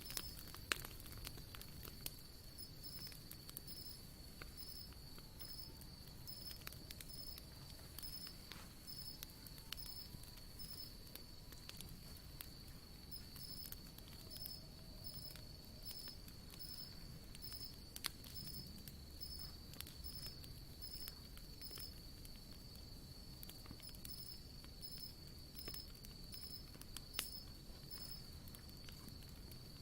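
Wood campfire crackling quietly: scattered sharp pops and ticks from the burning wood, with a few louder snaps. Underneath runs a steady high-pitched tone that pulses about once a second.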